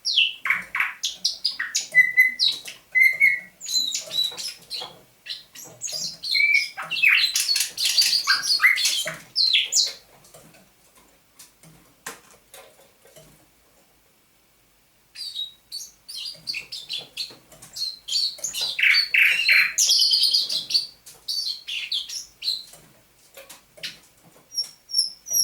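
Thrush nightingale singing: two long stretches of song made of rapid clicks, rattles and whistles, broken by a pause of about five seconds in the middle.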